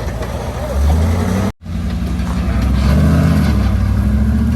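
Off-road rock-crawling truck's engine running, its pitch rising a little about three seconds in as it revs, with a brief dropout of sound about one and a half seconds in.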